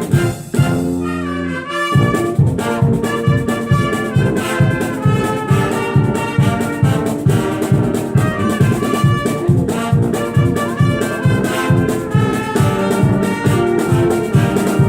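Brass band playing, with trumpets and trombones over a steady beat of about three pulses a second. It opens with a briefly held chord.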